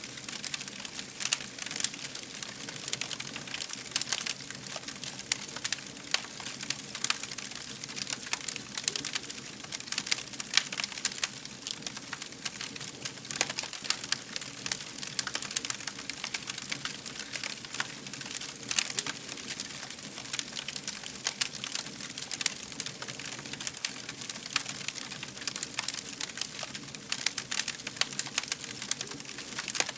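Fire crackling: frequent irregular sharp snaps and pops over a steady soft hiss.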